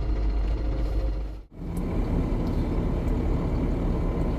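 GAZon Next truck's diesel engine running steadily. About a second and a half in, the sound drops out abruptly for a moment and comes back as a denser engine and road rumble.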